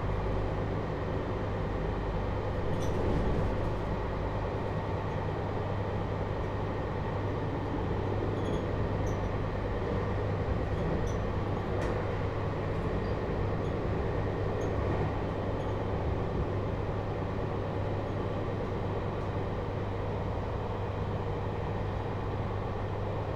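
JR Hokkaido 721 series electric train running, heard inside the motor car MoHa 721-4202, which carries a Toshiba GTO inverter. A steady rumble of wheels on rail and running gear, with no marked change in pitch or level.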